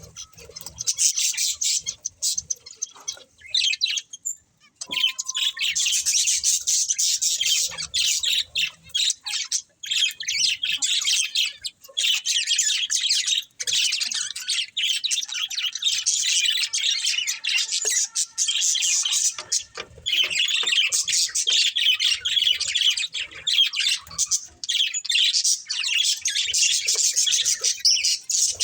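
Budgerigars chirping and chattering in a dense, high-pitched, rapidly changing warble, with brief lulls about four and a half and thirteen and a half seconds in.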